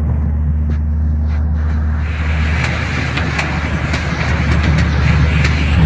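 A van driving, heard from inside: a steady low engine drone under road and tyre hiss, which grows louder after about two seconds.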